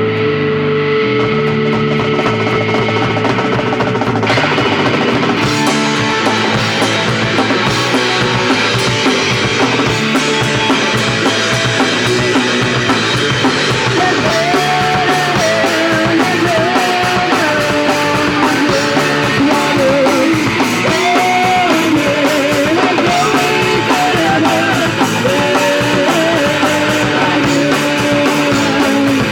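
Live punk rock band playing: distorted electric guitar chords, with the drum kit and cymbals coming in about four seconds in and the full band driving on from there. A wavering lead line comes in about halfway through.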